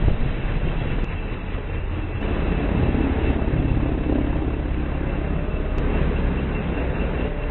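Tour helicopter in flight, heard from inside the cabin: steady engine and rotor noise with a fast, even low beat from the blades and a faint steady high whine.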